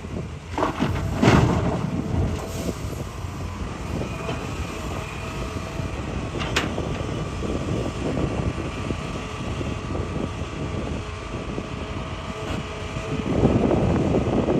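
Hitachi hydraulic excavator working in rock: engine running steadily, with sharp clanks of the bucket against rock, the loudest about a second in and another around six and a half seconds in. The engine gets louder near the end.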